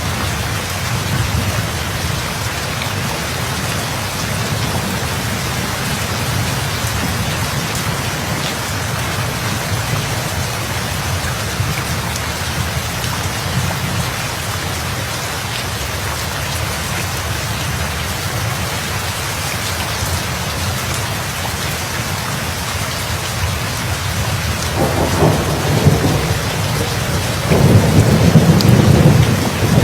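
Steady heavy rain falling, with two rolls of thunder rumbling in near the end, the second louder.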